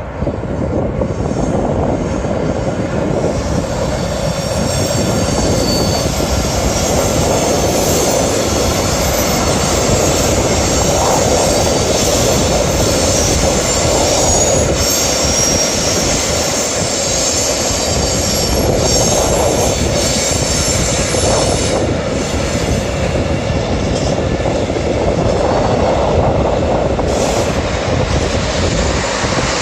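A train running on the rails close by, a loud steady rumble with high thin wheel squeal coming and going.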